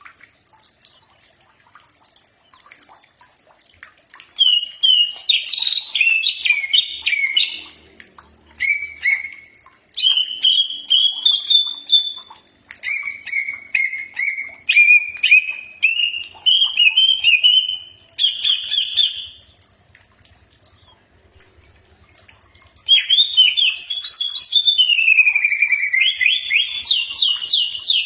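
Cucak ijo (leafbird) singing in bursts of quick, varied whistled phrases, some notes sliding down and some running in rapid rising series, with pauses of a second or a few seconds between the bursts.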